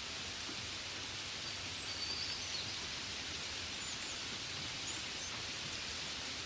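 Steady gentle rain falling, a soft even hiss, with a few faint high bird chirps between about one and a half and five and a half seconds in.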